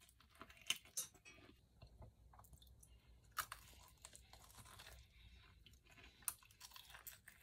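Faint crunching and chewing of a crispy, batter-fried oxtail being bitten into and eaten, with a few sharp crunches scattered through.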